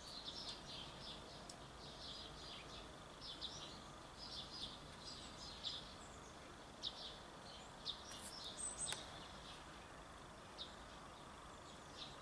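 Garden birds chirping outdoors, many short high chirps coming thick and fast at first and thinning out later, with one sharp click about nine seconds in.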